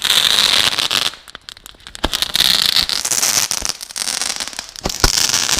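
Fireworks crackling and hissing in three bursts separated by short lulls, with scattered sharp pops.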